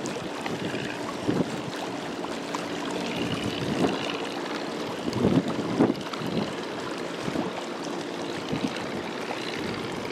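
Large ship passing with a low steady engine hum over a wash of water, and wind buffeting the microphone in several short gusts.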